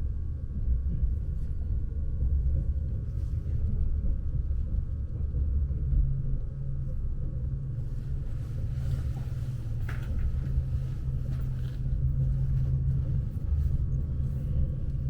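Steady low rumble inside a Lastochka electric train carriage. A faint hum of several steady high tones fades about halfway through, and a deeper steady hum comes in about six seconds in.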